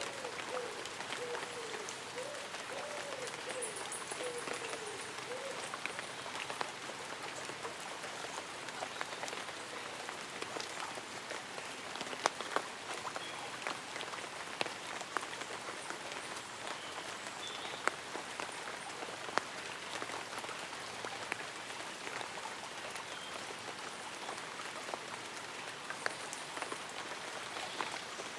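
Light rain falling on tree leaves and an umbrella, a steady patter with individual drops ticking sharply here and there. A faint wavering low call sounds in the first few seconds.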